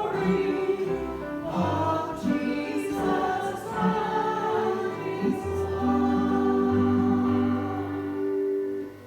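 Voices singing a hymn in chorus over an accompaniment, closing on a long held final chord that stops just before the end.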